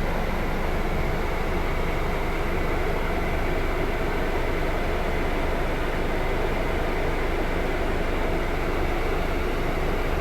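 Scania K320 IB coach running with a steady, even engine drone and no gear changes or revving.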